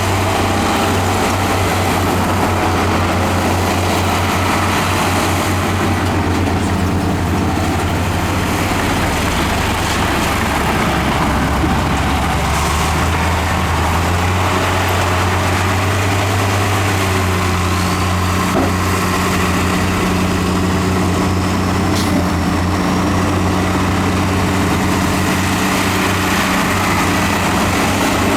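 Heavy diesel earthmoving machinery running steadily, a deep constant engine drone from the bulldozer and dump trucks working the fill.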